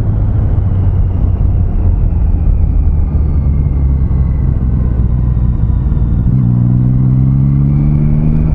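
Triumph Street Triple 660's inline three-cylinder engine running under way, with steady wind and road noise. About six seconds in, the engine note steps up and climbs steadily as the bike accelerates.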